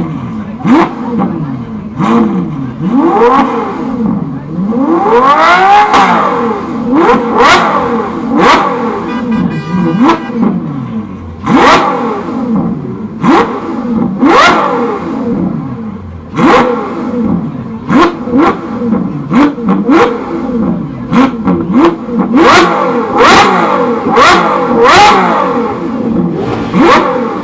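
Performance car engine revved again and again in quick blips, its pitch rising and falling each time, with sharp cracks from the exhaust at many of the blips.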